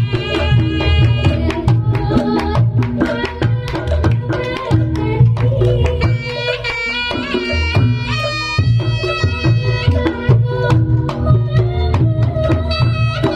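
Javanese Reog Ponorogo gamelan music at a sound check: hand drums beat steadily under a high melody line that bends in pitch.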